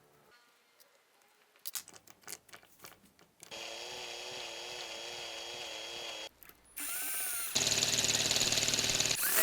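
Electric drill driving a homemade mini jackhammer. A few clicks, then the drill runs steadily for about three seconds. After a short break it runs again, louder, with a fast even rattle.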